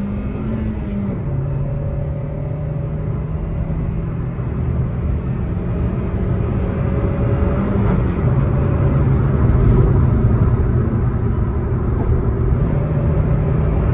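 Turbocharged 1.5-litre Toyota 1NZ-FTE four-cylinder engine running at cruise, heard from inside the car's cabin over tyre and road noise. The engine note steps down in pitch about one second in and again around eight seconds in, then climbs again near the end.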